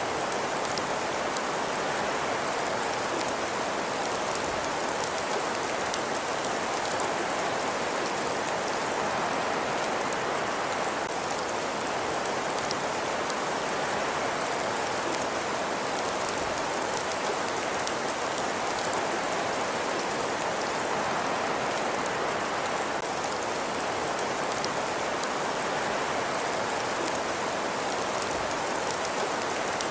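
Steady, even hiss with a dense patter of tiny crackles, unchanging throughout.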